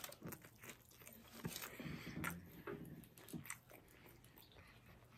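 Faint chewing and biting of a burrito, with scattered small wet mouth clicks.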